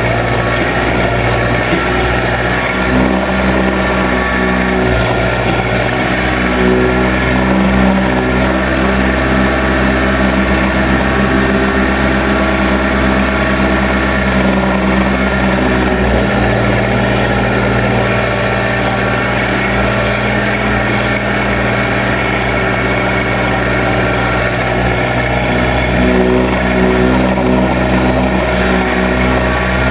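Case 580B backhoe's engine running steadily under work, its pitch shifting a little now and then.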